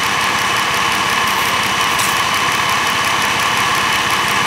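A 2012 Jeep Wrangler's 3.6-litre Pentastar V6 idling steadily, heard close up in the engine bay while air and coolant are bled from the thermostat housing's bleeder valve after a thermostat replacement.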